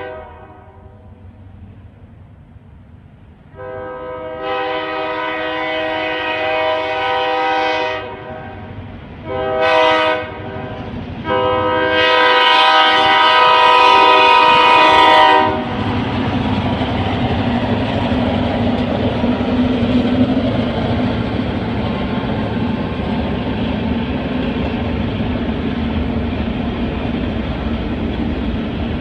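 Vermont Railway diesel locomotive's multi-chime air horn sounding a long blast, a short blast and a final long, loudest blast, the pattern of a grade-crossing signal. The train then passes, with steady engine rumble and wheels rolling on the rails.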